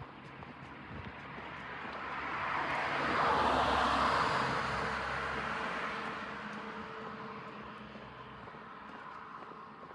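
A vehicle passing by: a rushing noise with a low hum that builds to a peak about three to four seconds in, then slowly fades.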